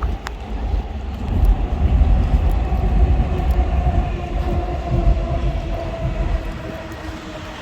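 Dubai Metro train running, a loud low rumble with a faint motor whine that drifts slightly lower in pitch; the rumble eases near the end.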